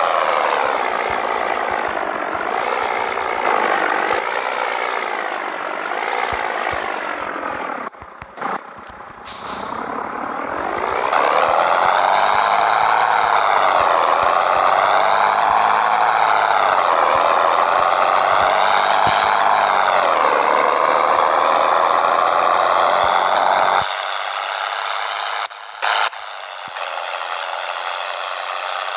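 Scania 113 truck's six-cylinder diesel pulling away under load. The engine pitch rises and then drops several times as it goes up through the gears, with a brief lull and a hiss about eight to ten seconds in. Near the end the sound turns abruptly quieter and thinner.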